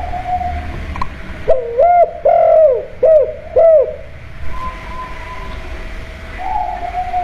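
Spotted dove (tekukur) cooing: a run of four loud, low, rounded coos from about a second and a half in, with fainter coos after it and near the end.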